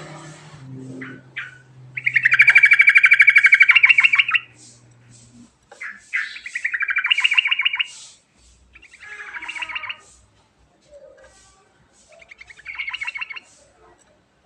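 Yellow-vented bulbul (trucukan) singing its rolling song in four bursts of rapid trilled notes. The first burst is the longest and loudest, and the later ones are shorter and fainter.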